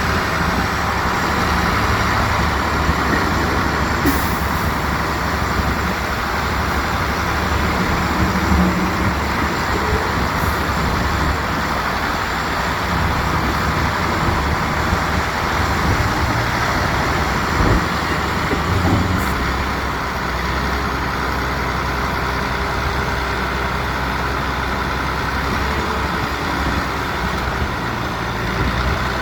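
Heavy diesel engine of construction machinery running steadily under load, settling into a more even drone about two-thirds of the way through, with a few brief high hisses.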